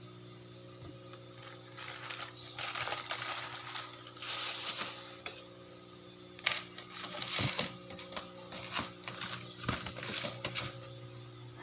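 Plastic food packaging crinkling and rustling in two long stretches of crackly noise, over a steady electrical hum.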